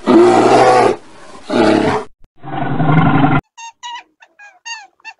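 Brown bear growling in three loud, rough bouts. From about three and a half seconds on comes a run of short, high squeaks from a rabbit, several of them falling in pitch.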